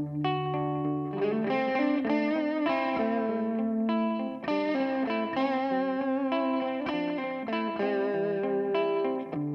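Electric guitar played through a Donner Yellow Fall delay pedal: a run of ringing chords and single notes, some of them wavering in pitch.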